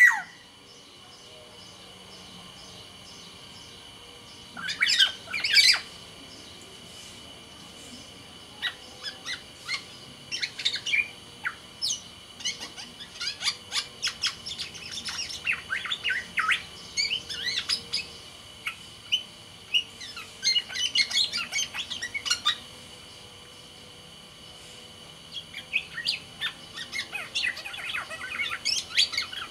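Black-naped oriole (kepodang) calling in bouts of rapid, sharp chattering notes, with pauses of a few seconds between bouts.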